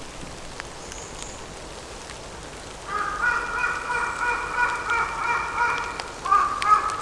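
Steady rain pattering on leaves. About three seconds in, a loud, sustained, slightly wavering pitched call or tone starts and runs on for about four seconds.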